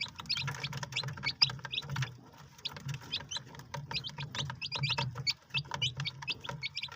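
Several chicks peeping: many short, high peeps a second, overlapping, over a low hum.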